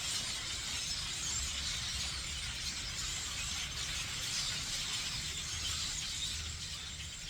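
A huge flock of birds calling all at once, a dense, crackling chatter that keeps up steadily and eases slightly near the end, with a low rumble underneath.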